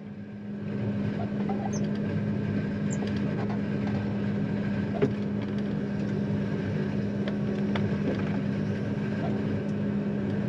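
John Deere 9500 combine's diesel engine running with a steady drone, getting louder about a second in and then holding steady, with a single sharp click about halfway through.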